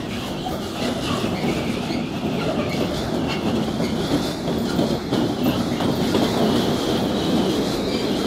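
Freight train wagons rolling past at speed: a steady rumble of wheels on rail, with rhythmic clicks as the wheels cross rail joints, growing slightly louder.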